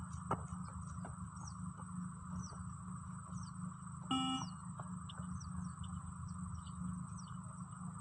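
Birds chirping in short falling calls over a steady background hum. About four seconds in, one short electronic beep sounds from the beep-test recording, the signal that the runner must reach the 20-metre line.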